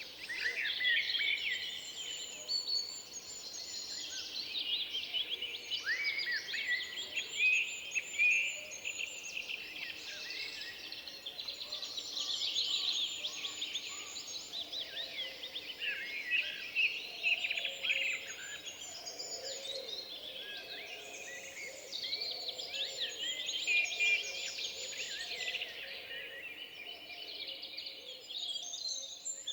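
Chorus of many songbirds singing at once, with overlapping chirps and rapid trills throughout.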